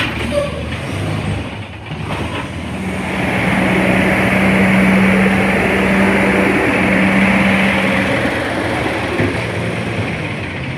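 Engine of a CNG front-loader garbage truck running, swelling louder a couple of seconds in with a steady hum, then easing off slightly near the end.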